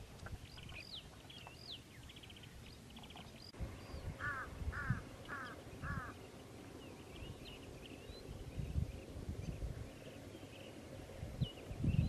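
Wild birds calling: sharp high whistled notes in the first two seconds, then four short calls repeated about half a second apart, then faint scattered chirps. A low rumble sits under the calls.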